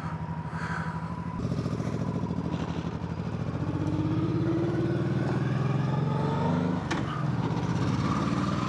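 Yamaha MT-07's parallel-twin engine under way. It gets louder about a second and a half in, and its pitch climbs steadily for several seconds as the bike accelerates. The pitch drops abruptly about seven seconds in, then runs on steady.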